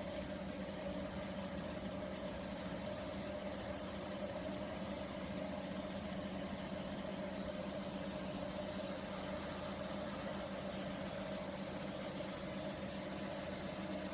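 Dyas 3 BDC-1200 industrial machine with bandsaw running with a steady, even hum that does not change.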